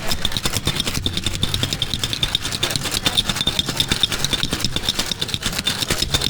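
Ice rattling inside a cocktail shaker as it is shaken, a fast, steady run of clattering strokes.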